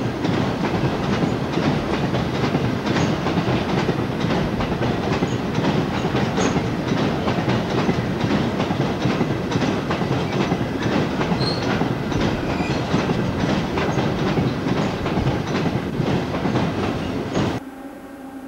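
A long rake of empty coal hopper wagons rolling past, wheels clicking rapidly over the rail joints. The sound cuts off suddenly near the end.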